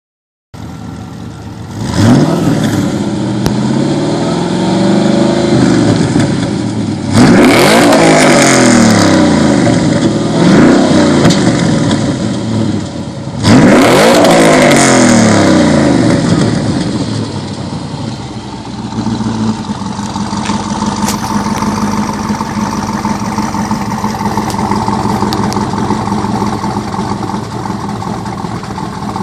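Exhaust of a 2011 Chevy Colorado's supercharged 5.3-litre V8, fitted with Doug Thorley headers and dual Dynomax VT mufflers, revved hard three times. Each rev rises sharply and then winds down slowly. It then settles into a steady idle for the last ten seconds or so.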